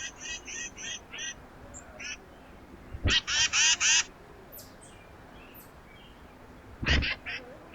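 A bird at a feeder gives a series of short, harsh, nasal calls. They come in quick runs, with the loudest group of four about three seconds in and another burst near the end.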